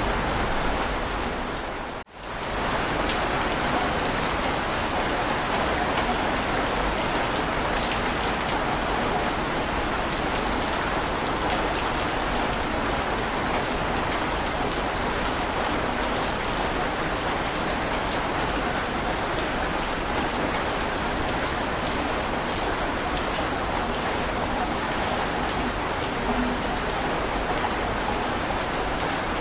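Heavy rain falling in a steady, dense hiss. About two seconds in, it briefly fades out almost to silence and comes straight back.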